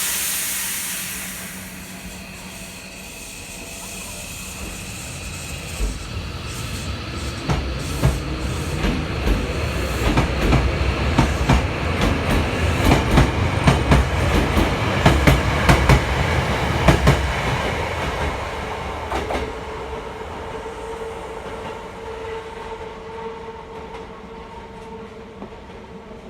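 Nose Electric Railway 7200 series electric train pulling away: a hiss of air dies off at the start, then the wheels clatter over rail joints and pointwork, growing louder to a busy run of clicks before fading as the train moves off.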